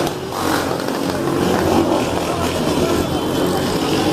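Motorcycle engines running amid noisy street sound.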